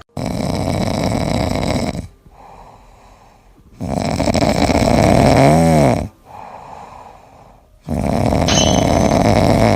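Loud snoring: three long, rasping snores about four seconds apart, with quieter breathing between them.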